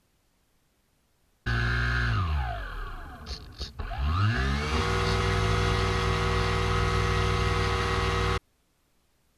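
A motor's pitched whine that starts suddenly, slides down in pitch, dips with a couple of clicks, then climbs back up and holds steady before cutting off abruptly.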